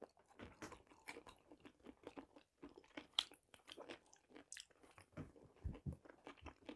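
Faint close-up chewing of fried chicken, with soft scattered mouth clicks and smacks and one sharper click about three seconds in.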